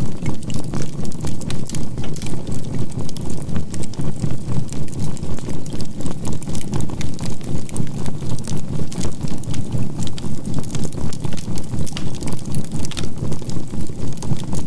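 Crackling campfire mixed with a low synthesized drone that pulses evenly about four times a second (binaural beats), and a faint steady 528 Hz tone.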